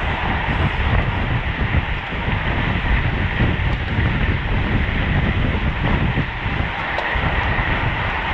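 Wind buffeting a bike-mounted camera's microphone at racing speed, with a steady rush of tyre and road noise and a faint steady whine from the bicycle.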